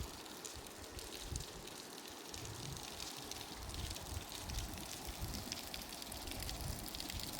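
River water running and splashing, a steady rush with fine crackling, with wind rumbling on the microphone in uneven gusts.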